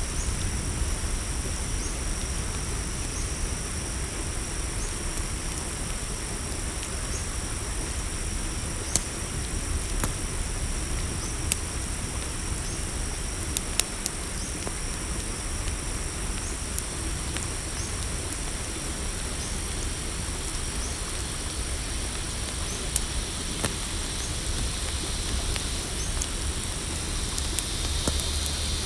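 Campfire crackling with occasional sharp pops over a steady low rumble, while crickets trill steadily and a short chirp repeats every second or two. A higher insect buzz joins near the end.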